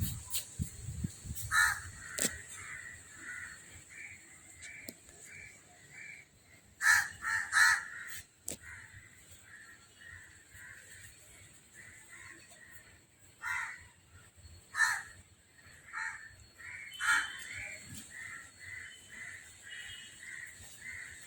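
Outdoor birds calling over and over, with short calls about twice a second and louder bursts of a few calls every few seconds. A steady high hiss runs underneath.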